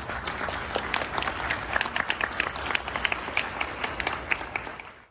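Applause: many people clapping at once, dying away near the end.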